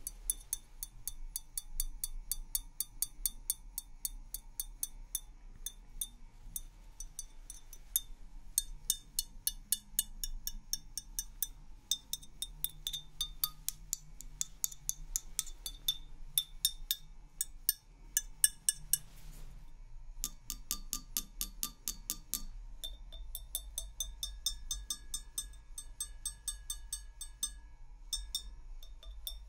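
Rapid tapping on glassware, each tap a short ringing clink, about three or four a second, with brief pauses about a third of the way in and again around two-thirds of the way through.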